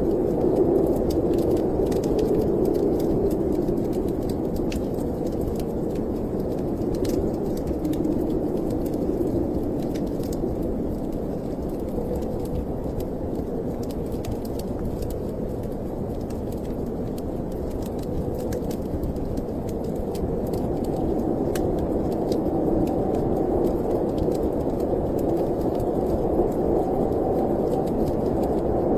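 Snowstorm wind blowing in a steady low rush that slowly swells and eases, easing off near the middle and building again toward the end, with faint scattered crackles of a wood fire.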